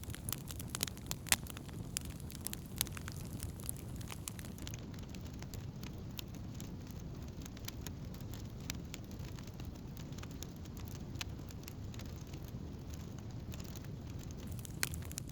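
Wood campfire burning: frequent sharp crackles and pops of burning wood, busiest in the first few seconds, over a steady low rumble of the flames.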